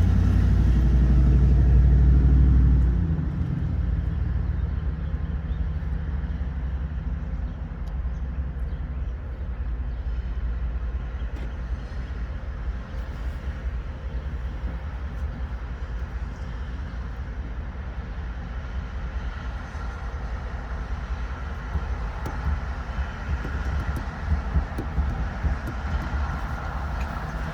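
Steady low rumble of a car engine running, loudest for about the first three seconds and then settling to an even, lower level.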